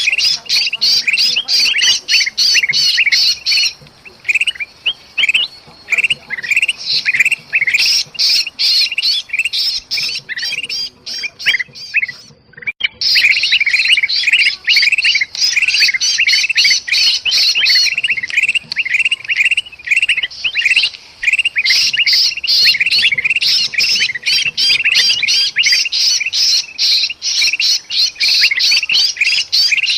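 Bulbuls, black-crested bulbul (kutilang emas) and sooty-headed bulbul (kutilang), giving agitated alarm and distress calls, as of a bird caught in a trap. A continuous, rapid stream of short, sharp chattering notes, thinner for a few seconds in the first half and breaking off for about a second near the middle.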